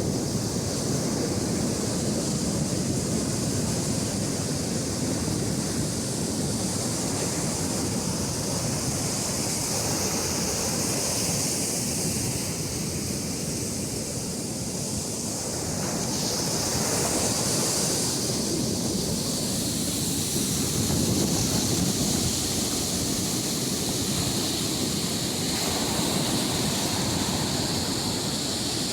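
Arabian Sea waves breaking on the beach: a continuous wash of surf that swells a little about two-thirds of the way through.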